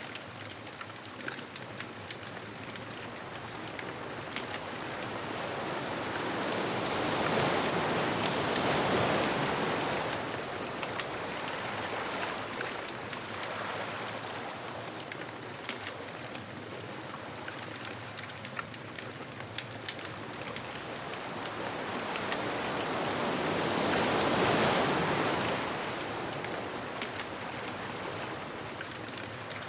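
Surf on a beach: waves breaking in slow swells, two of them rising and falling back, one about a third of the way in and one near the end. Light crackling of a bonfire goes on underneath as fine, scattered pops.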